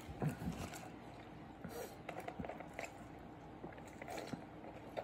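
Faint chewing and small wet mouth clicks of a person eating a burger.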